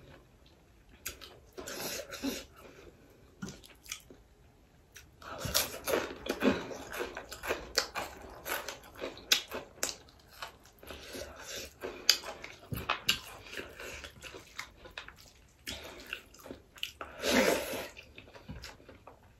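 Close-up eating sounds from a person eating rice and duck fry by hand: wet chewing, lip smacks and finger licking in irregular bursts, with a louder wet burst near the end.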